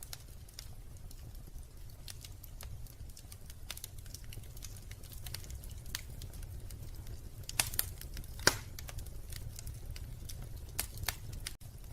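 Wood fire crackling in a fireplace: scattered irregular pops and snaps over a low steady rumble, with a couple of louder pops a little past the middle.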